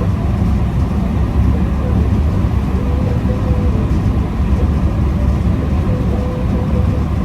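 Motor vehicle driving, with a steady low rumble of engine and road noise.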